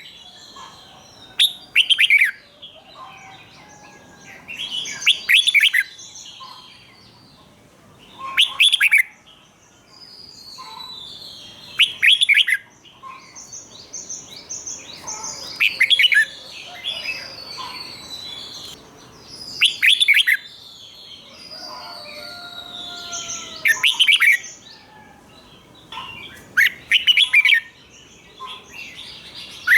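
Red-whiskered bulbul singing: a loud, quick phrase of falling notes about every four seconds, about eight phrases in all, with softer twittering chirps in between.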